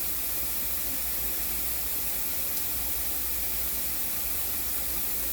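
Shower running with a fine misty spray: a steady, even hiss of water.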